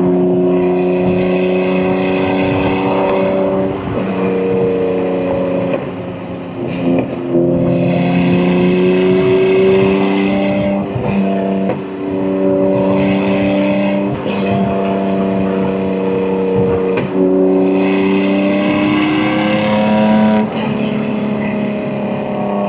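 BMW M2 G87's S58 twin-turbo inline-six, with catless downpipes and an equal-length mid pipe, pulling under load. It runs through several manual gear changes: the note dips and drops in pitch at each shift, about five times, then climbs again.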